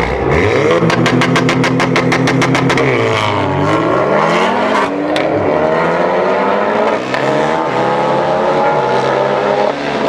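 Race cars launching from a standing start and accelerating hard, engines revving high with a run of rapid pops, about seven a second, in the first couple of seconds. The engine pitch drops at a gear change and climbs again as the cars pull away at full throttle.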